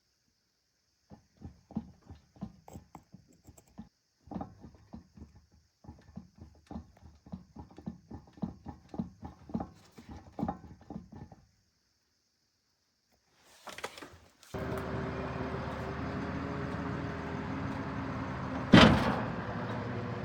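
A run of irregular light knocks and clicks, two or three a second, for about ten seconds. After a short pause a car's steady running drone with a low hum begins, and one loud thump comes near the end.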